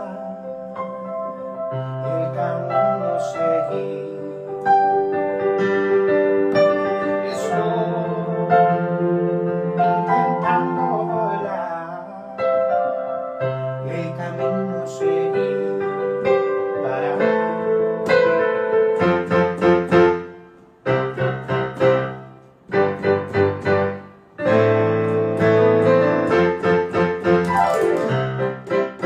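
Piano playing an instrumental passage, with sustained chords and melody notes. From about two-thirds of the way in it moves to repeated short, detached chords.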